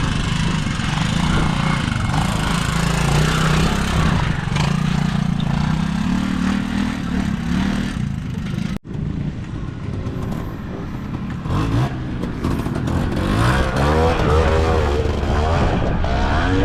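Trials motorcycle engine pulling at low revs, its pitch rising slowly. The sound cuts off abruptly about nine seconds in, and a bike engine then takes over, revving up and down in quick swings near the end.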